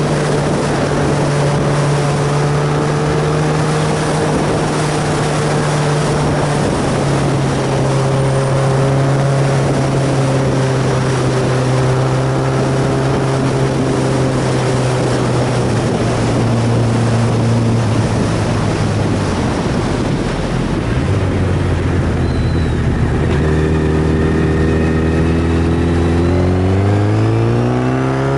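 Inline-four sport motorcycle engine running under way, with wind rush. Its note holds fairly steady, sinks gradually past the middle, then climbs sharply near the end as the bike accelerates.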